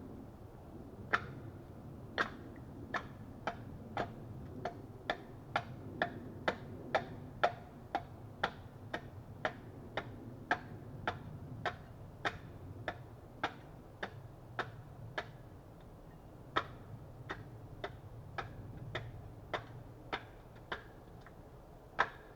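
Axe striking wood in quick, light, evenly paced strokes, about two a second, with a short pause about two-thirds of the way through.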